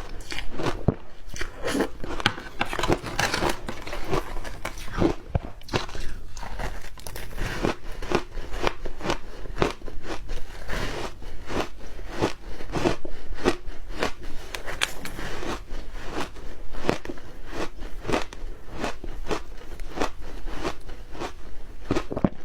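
Close-up crunching of ice being bitten and chewed, a rapid irregular run of sharp cracks and crunches several times a second.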